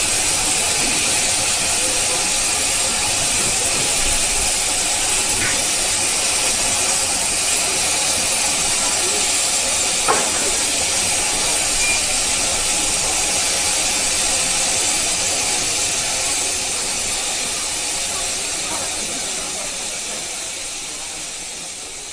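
Steady hiss of steam escaping from a 15-inch-gauge 2-6-2 steam locomotive, fading out near the end.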